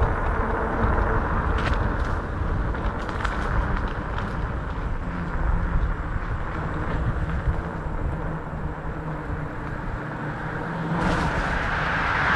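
Wind buffeting the microphone and road noise while riding a 500-watt fat-tire electric bike, with a faint steady hum through the middle stretch and a rise in traffic-like noise near the end.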